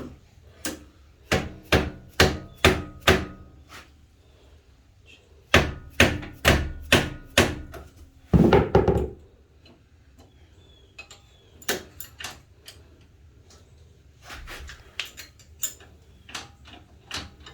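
Repeated sharp metal knocks with a short ring after each, in several quick clusters with the loudest about eight seconds in: a tool striking metal parts of a pit bike while a rubbing part is adjusted.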